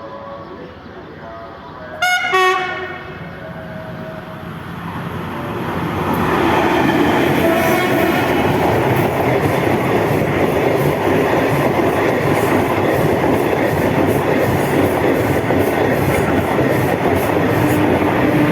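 Diesel locomotive sounding its horn once, briefly, about two seconds in, then the train passing close by: the rushing and clatter of the wheels on the rails builds over a few seconds and stays loud.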